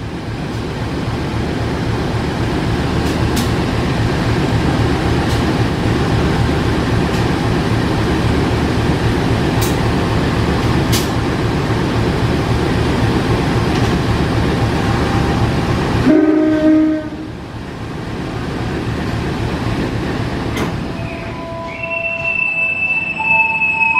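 Diesel locomotive and train running with a loud, steady heavy rumble and a few sharp metallic clicks, which cuts off abruptly about two-thirds of the way through. After that a train horn sounds, one short blast and then longer held tones near the end.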